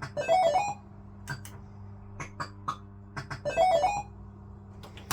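Barcrest MPU3 Autoroute fruit machine playing a short, rapid bleeping electronic jingle twice, about three seconds apart, with sharp clicks in between over a steady electrical hum.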